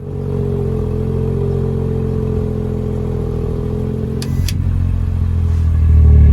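BMW M135i's turbocharged straight-six engine and exhaust running steadily, its exhaust valve fitted with a new pin and actuator motor. A brief hiss comes about four seconds in, and the deep low note grows louder near the end.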